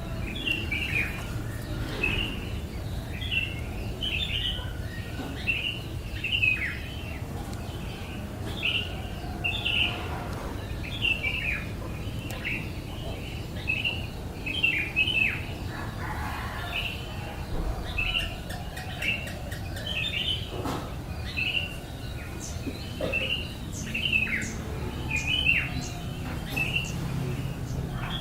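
Baby bird chirping again and again: short high calls, each dropping in pitch, about one or two a second, over a low steady rumble.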